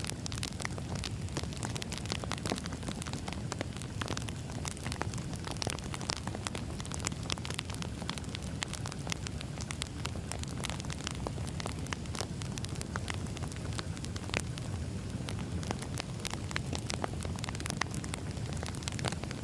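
Firewood burning: a steady low rumble of the fire with frequent sharp, irregular crackles and pops from the burning logs.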